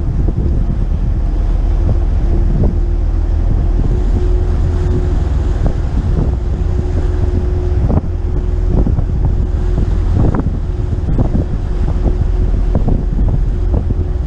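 Wind buffeting the GoPro's microphone aboard a McKinna 65 motor yacht under way, over a steady low rumble with a faint held hum. Short sharp knocks and splashes come more often in the second half.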